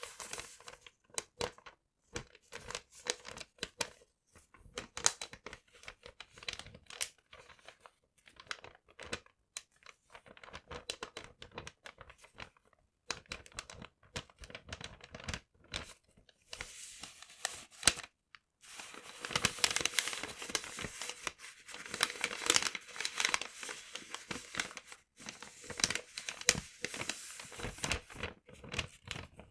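Paper being crumpled and torn by hand: a run of irregular crackles and rustles, busier and louder in the second half.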